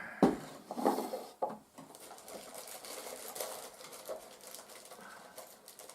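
Small parts being handled on a workbench. A few sharp knocks come in the first second and a half, then a light run of faint quick ticks and rustles.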